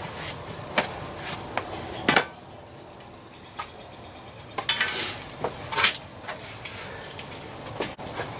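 Small hard objects being handled and set down: scattered clinks and clicks, with brief scraping or rustling noises about two, five and six seconds in.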